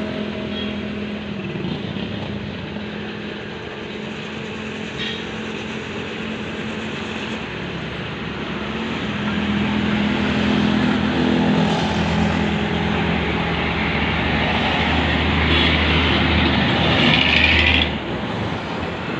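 Tractor engine running steadily, growing louder from about halfway through and then dropping off suddenly near the end.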